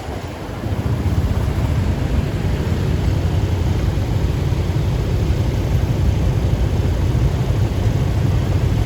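Steady low rumble of a vehicle on the move with wind on the microphone, getting louder about a second in and then holding level.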